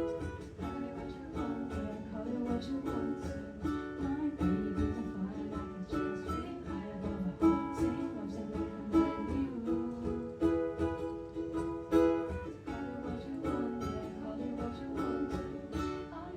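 Ukuleles playing an instrumental passage of a pop song: steady strummed chords with notes ringing over them, no voice.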